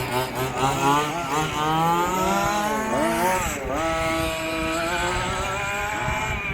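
Small two-stroke petrol engines of 1/5-scale RC cars revving as they race, the pitch rising and falling with throttle; the note dips about three seconds in, then climbs again, with more than one engine heard at once.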